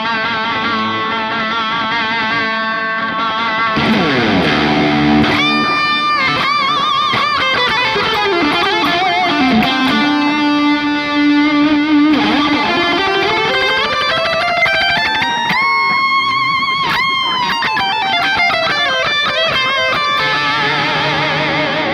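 Distorted electric guitar playing a lead through a Friedman BE DLX amp module, with echo repeats from a Donner Versa Yellow Fall 2 delay pedal. Long sustained notes with wide vibrato, sliding slowly down in pitch and later back up.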